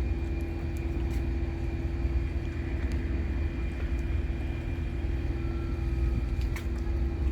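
An engine running steadily: a continuous low drone with a held hum, a few faint clicks over it.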